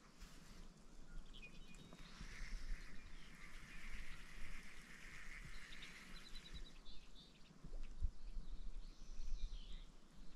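Faint wild birds chirping and trilling, with a quick run of chirps about two-thirds of the way through, over a low rumble of wind on the microphone.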